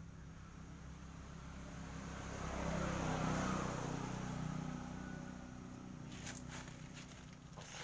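A motor vehicle passing by: it grows louder to a peak about three seconds in, then fades away, over a steady low engine hum. A few faint clicks come near the end.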